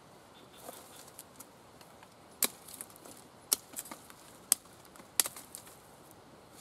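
Knife chopping on a board: sharp single knocks, four loud ones about a second apart, with fainter taps between.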